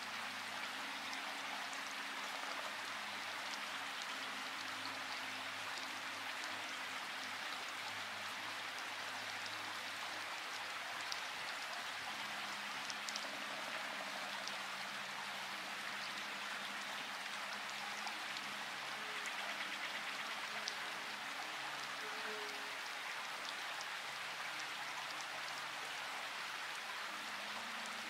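Steady rainfall, an even hiss with a few sharper single drop ticks scattered through it.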